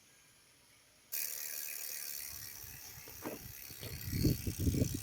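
Mountain bike being handled after a brake replacement: the rear hub's ratchet clicking and the bike knocking and rattling as the wheel is turned, loudest near the end, over a steady hiss that starts suddenly about a second in.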